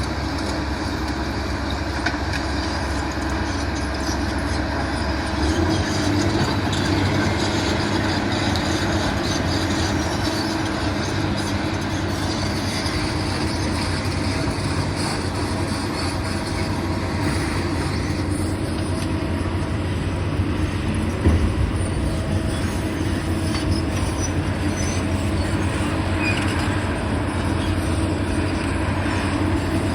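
Heavy demolition machinery running steadily, a continuous loud mechanical rumble and grind, with one brief louder knock about 21 seconds in.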